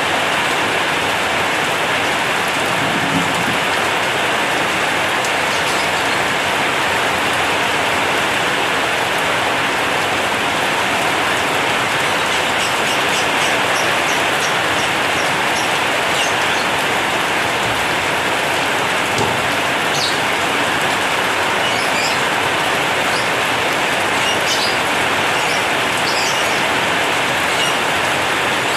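Heavy rain drumming steadily on a corrugated zinc roof, a dense even hiss. Faint short high chirps come and go in the second half.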